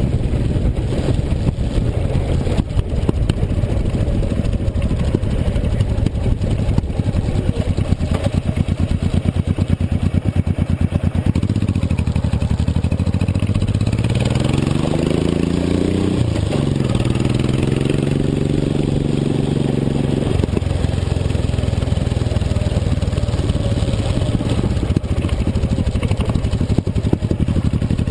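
Motorcycle engine running under way. About halfway through its pitch rises as it speeds up, holds higher for a few seconds, then drops back.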